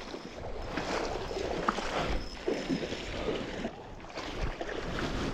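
Shallow floodwater sloshing and splashing in irregular bursts.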